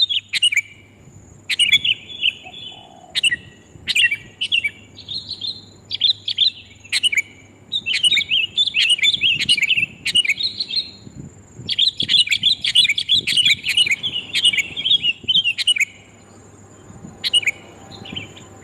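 Sooty-headed bulbul (kutilang) calls played as a lure: loud phrases of quick chattering chirps, each lasting a second or two, with short breaks between them. A thin, steady high tone runs behind the calls.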